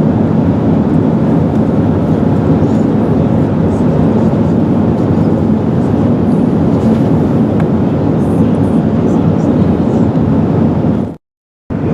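Steady cabin noise inside an Airbus A380 on its descent: airflow and the Rolls-Royce Trent 900 engines, heaviest in the low range. It cuts out completely for about half a second near the end.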